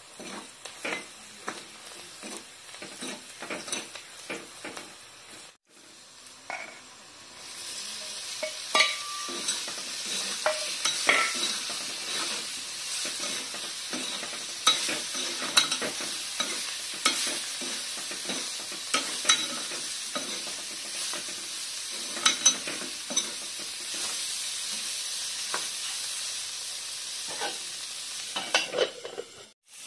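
Onions and silkworm pupae frying in an iron kadai, a steel ladle stirring and scraping against the pan with frequent clicks. The sizzle is faint at first and, after a brief gap about six seconds in, becomes much louder and steadier.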